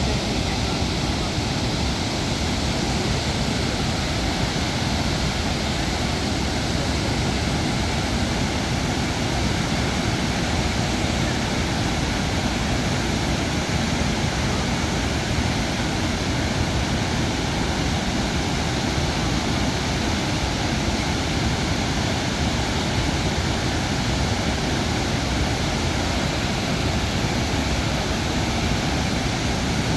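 Chitrakote Falls on the Indravati River: a wide waterfall pouring down, heard as a loud, steady rush of water with no break.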